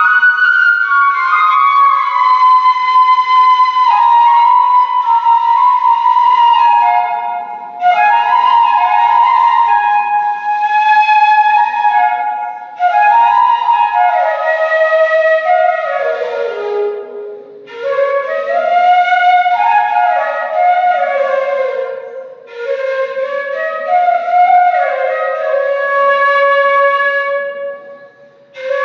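Background music: a solo flute-like wind instrument playing a slow, sliding melody in phrases of a few seconds with short breaks between them.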